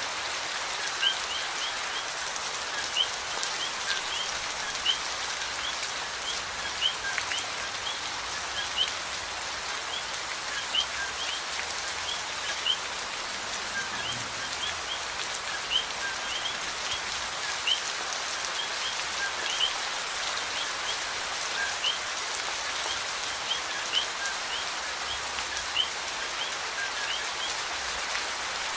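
Steady rain falling in an even patter, with short high rising chirps recurring throughout, one or two a second.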